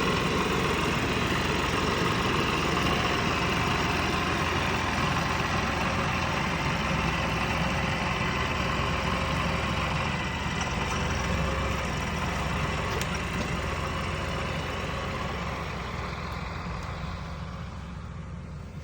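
Mahindra tractor's diesel engine running steadily, growing fainter over the last few seconds.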